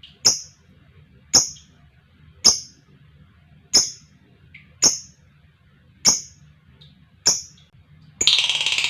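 Lovebird giving sharp, short, high chirps about once a second, with a few fainter calls in between. Near the end a louder, continuous rapid chatter starts abruptly.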